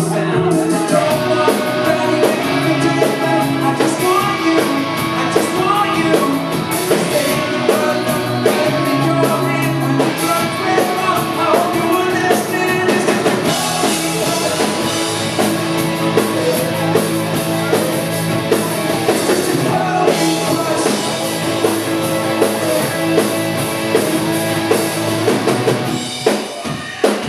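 Rock band playing live, with drum kit and guitars. Near the end the full sound drops back, leaving separate drum hits.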